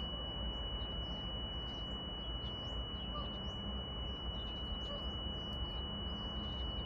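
A steady high-pitched tone holds unbroken over a low, even rumble from a distant approaching freight train, with faint bird chirps above.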